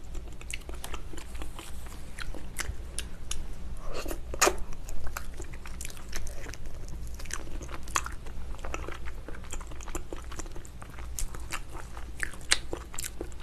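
Close-miked chewing and biting of spicy braised ox foot, with many short, sharp mouth clicks and smacks throughout.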